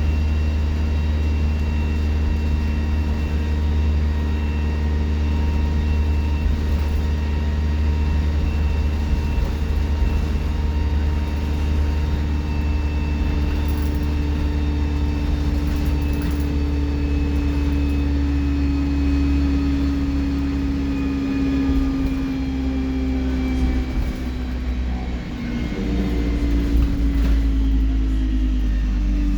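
Alexander Dennis Enviro 200 bus's diesel engine running with a high turbocharger whistle over a deep drone. The whistle and engine tones slowly fall in pitch through the second half as the engine slows.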